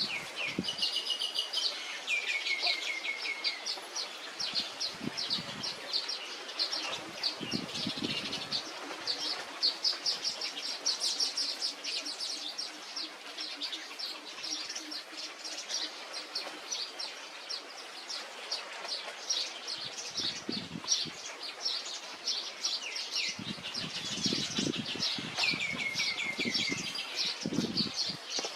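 Small songbirds chirping continuously, rapid short high notes, with a quick falling run of notes about two seconds in and again near the end. Soft low thumps come now and then.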